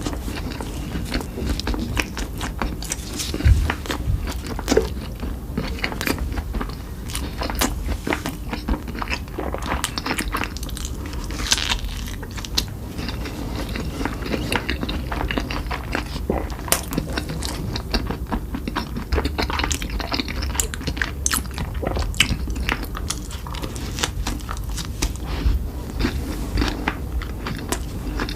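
Close-miked eating: repeated bites and chewing with many short, crisp crunching clicks, as in a mukbang of burger, barbecue meat and nuggets.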